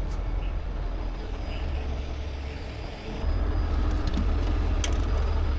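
Heavy wrecker's diesel engine idling steadily as a low rumble that grows louder about three seconds in, with a few light metallic clicks from hand work on a drive shaft.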